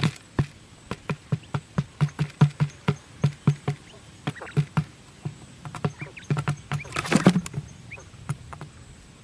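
A quick, irregular series of light taps and knocks, about three a second, with a brief scraping rustle about seven seconds in.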